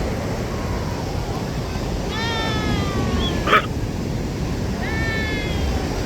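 A dog whining twice in long falling whines, with one short sharp yelp about three and a half seconds in, over a steady rumble of wind and surf.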